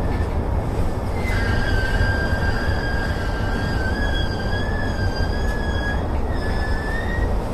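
Keihin-Tohoku Line electric train running with a steady low rumble, and from about a second in a high, slightly wavering squeal from the steel wheels on the rails that breaks off briefly and returns near the end.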